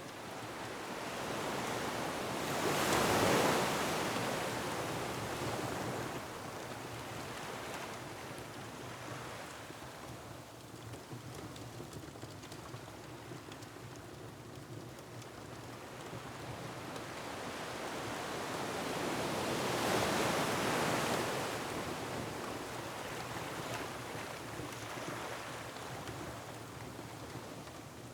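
Ocean waves surging and breaking on a rocky shore, swelling up twice (about three seconds in and again around twenty seconds) over a steady hiss of wind. A wood fire crackles faintly throughout.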